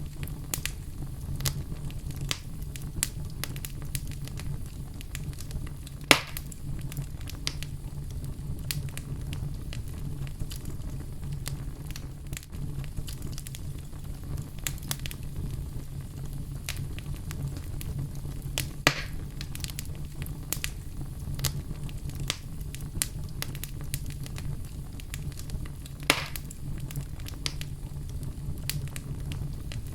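Wood fire burning in a fireplace: a steady low rumble under constant scattered crackles, with three louder pops at about 6, 19 and 26 seconds in.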